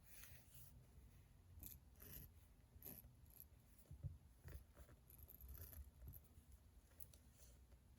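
Faint desk sounds of someone studying: short scratchy strokes and light taps at irregular intervals, over a low steady room hum.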